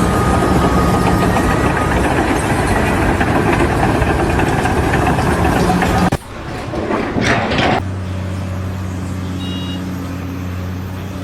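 Loud, dense machinery noise for about six seconds that cuts off abruptly. After a brief changing sound, an engine idles steadily.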